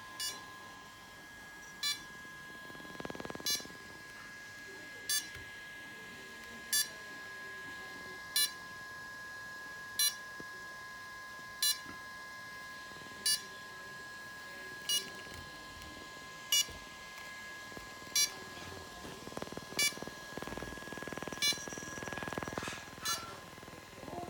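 Short electronic beep from a DJI Phantom 4 Pro drone system, repeating evenly about every 1.6 seconds over a faint steady high tone, while the drone won't start. Some rustling handling noise comes in briefly and again near the end.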